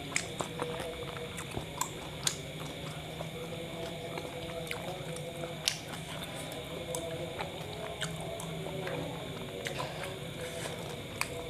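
Close-miked chewing of a kebab, with scattered wet mouth clicks and smacks, over a steady background hum.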